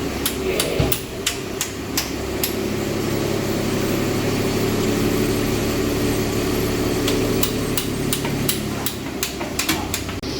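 Hammer blows on metal, a quick string of sharp strikes in the first couple of seconds and another string near the end, over a steady engine hum.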